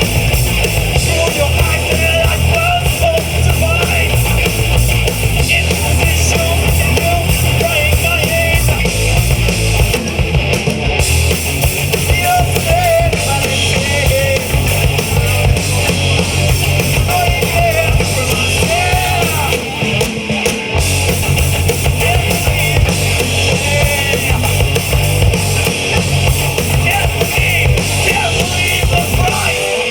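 Live rock band playing: distorted electric guitars, bass guitar and drum kit, loud and continuous.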